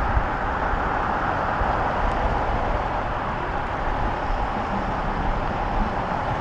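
Steady engine drone from idling vehicles, an even noise with a low rumble that holds without change.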